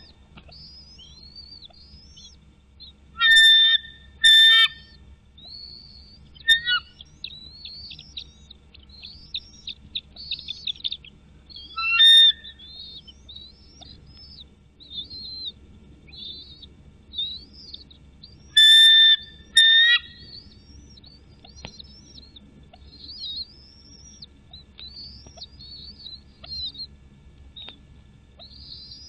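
Birds calling: a steady twittering of quick high chirps, broken about six times by louder, level whistled calls.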